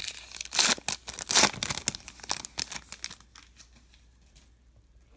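Foil trading-card pack wrapper crinkling and tearing in quick, crackly bursts, stopping about three seconds in.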